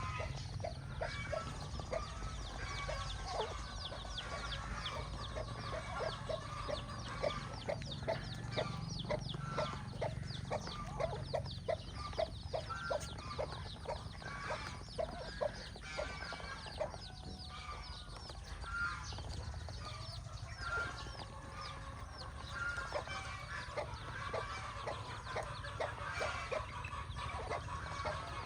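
Mother hen clucking in a steady run of short clucks, about two or three a second, with many chicks peeping in quick, high, falling notes over it.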